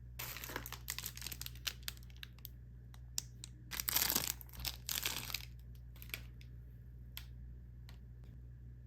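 Plastic packaging crinkling and rustling in irregular crackly bursts, densest about four seconds in, then thinning to a few scattered ticks.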